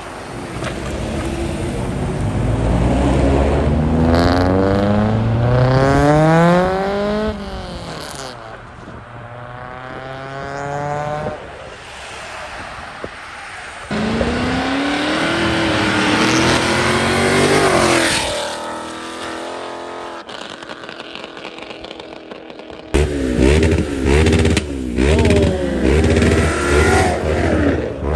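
Performance cars accelerating hard one after another, engine pitch climbing steeply with each pull. Near the end an engine is revved in a series of short, sharp blips.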